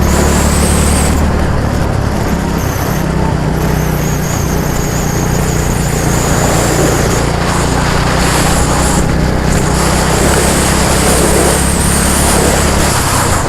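An engine running steadily, with a faint high whine over it.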